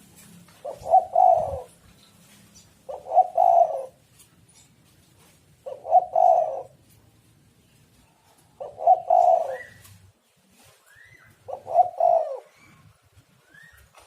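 Spotted dove (tekukur) cooing: five multi-note coo phrases about three seconds apart. Faint short higher chirps come in between the later phrases.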